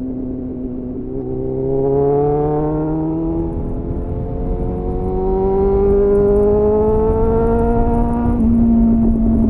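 2001 Suzuki GSF 600 Bandit's inline-four engine through an aftermarket SC-Project CR-T-style exhaust with a dB-killer, accelerating under load with its pitch rising steadily. Near the end the pitch drops suddenly at an upshift.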